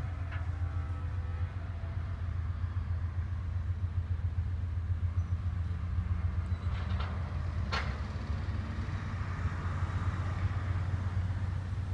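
Steady low rumble of a diesel freight train approaching in the distance, with one sharp metallic clank a little under eight seconds in.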